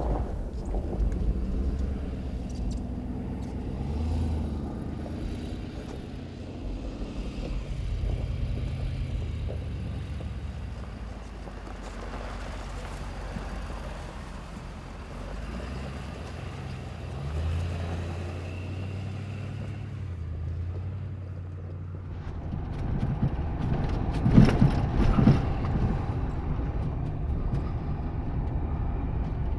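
Off-road 4x4 truck driving a rough dirt trail: the engine runs low, with its pitch rising and falling as the driver works the throttle. About 23 seconds in it grows louder, with a run of knocks and rattles from the truck jolting over bumps.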